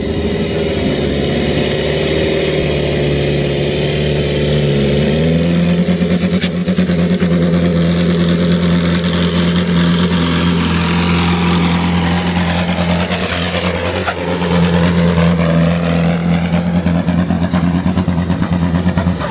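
Tractor engine running hard under load, as in a tractor pull. A faint high whistle rises over the first five seconds, then the engine note steps up and holds steady at high revs.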